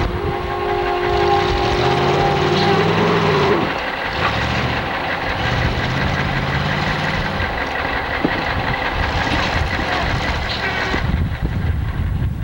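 1977 Chevrolet Blazer's engine revving up and falling back twice as the truck, stuck in a snowy ditch, tries to pull out, over a steady loud wash of vehicle noise.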